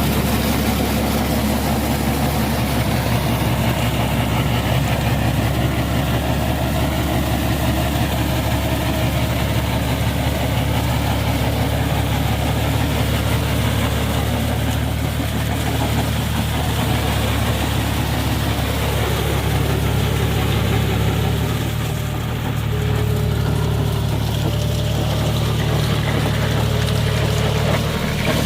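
John Deere tractor's diesel engine running steadily, with a brief slight dip in loudness about three-quarters of the way through.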